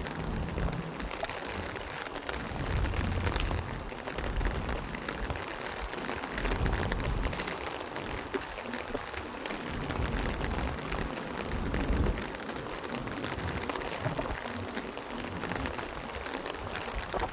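Steady hiss of rain falling, with irregular low rumbles swelling and fading underneath.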